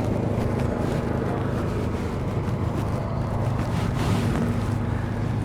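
A steady low engine hum with wind noise on the microphone.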